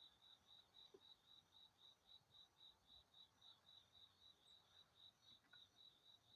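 Faint cricket chirping steadily, about five even high-pitched chirps a second.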